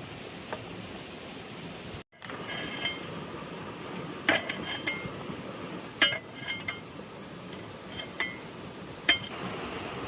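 A few sharp clinks of hard objects knocking together, each with a short ring, the loudest about four, six and nine seconds in.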